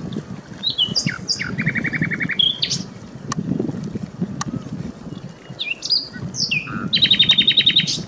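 A songbird singing loud, varied phrases of sweeping whistled notes that end in a fast trill of about a dozen notes a second. The first phrase comes about a second in, and a higher one near the end.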